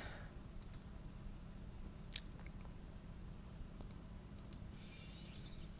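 Quiet room: a steady low hum with a few faint, sharp clicks, one about two seconds in, and a faint hiss near the end.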